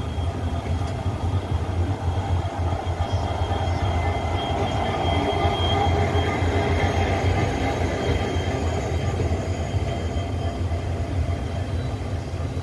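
Indian Railways passenger train running slowly, heard through an open coach door: a steady rumble of the running gear with a faint, thin wheel squeal, louder in the middle.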